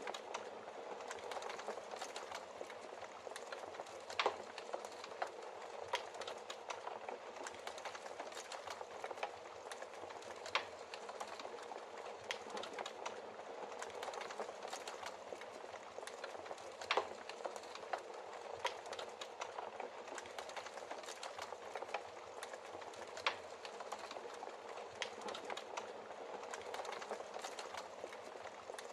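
Wood fire in a fireplace burning steadily: an even hiss of flames with frequent small crackles and a few louder pops of burning logs.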